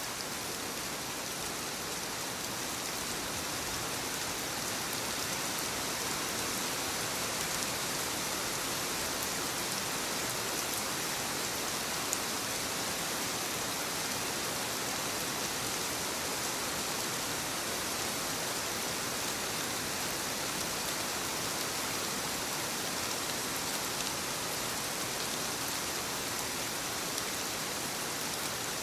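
Soft rain falling steadily on leaves, an even hiss of many small drops.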